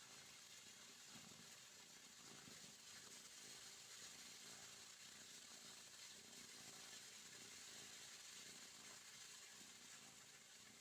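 Near silence with a faint, steady hiss.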